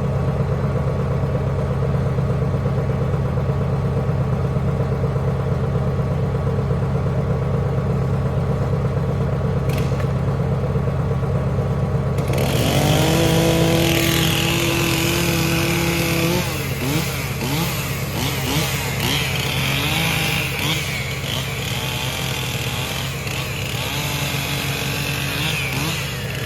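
Heavy machine's engine running steadily, then about halfway through it is worked harder, louder with a higher whine whose pitch wavers up and down.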